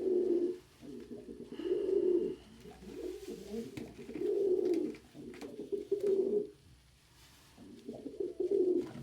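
Domestic pigeons cooing, a run of low coos each lasting about half a second to a second, with a short lull about seven seconds in.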